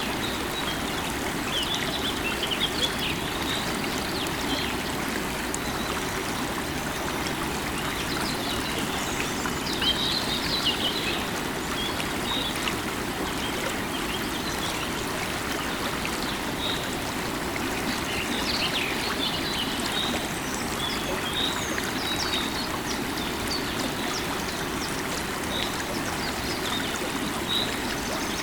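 River water flowing in a steady rush, with birds giving short chirps now and then above it.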